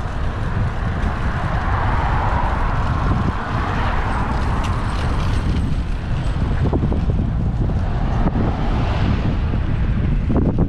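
Wind buffeting the microphone of a bike-mounted GoPro while cycling, a steady low rumble, with road traffic passing; one vehicle swells up and fades about two to four seconds in.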